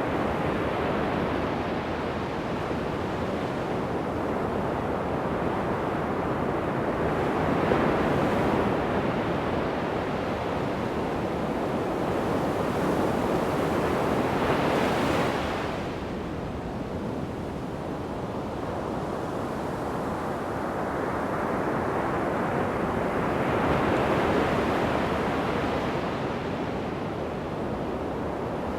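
Ocean surf breaking on a sandy beach, a steady wash that swells and falls back, with louder breakers about a quarter of the way in, around the middle and again later on. Some wind on the microphone.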